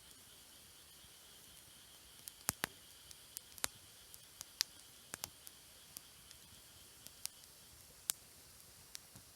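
Campfire wood crackling: sharp, irregular pops and snaps, scattered from about two seconds in, some louder than others.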